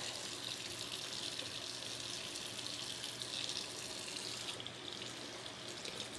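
Faint, steady hiss of a kitchen tap running, its highest part thinning about four and a half seconds in.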